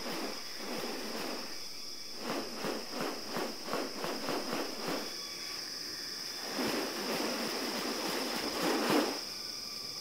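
Steady high-pitched insect drone, with a quick run of short, noisy pulses about three a second, then a longer, louder noisy swell near the end.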